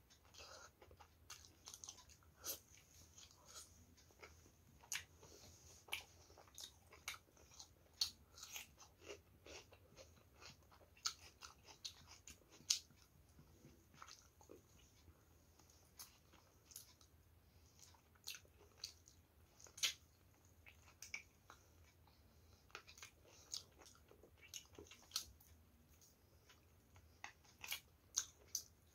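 A person biting and chewing meat off a sauced chicken drumstick. The mouth makes many short, irregular clicks throughout, with no steady rhythm.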